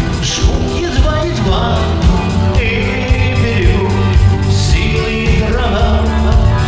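Rock band playing a song, with a voice singing over the band.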